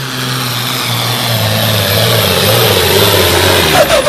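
Diesel pickup truck engine running hard under load while pulling a sled, growing louder. Near the end its pitch drops as the revs fall away.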